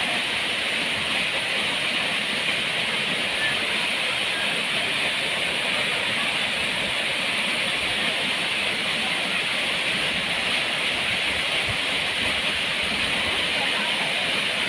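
Steady rushing of flowing water, a mountain stream or small waterfall, an even unbroken hiss.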